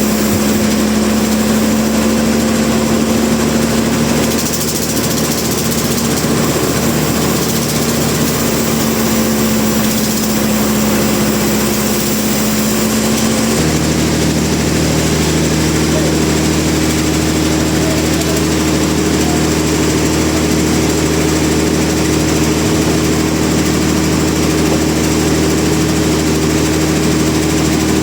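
Sawmill machinery running with a steady hum over a noisy background, switching abruptly about halfway through to a different, lower hum.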